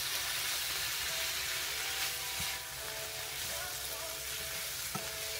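Chicken, tofu and asparagus sizzling in a hot frying pan as they are stir-fried with a spatula, with a couple of light knocks from the spatula.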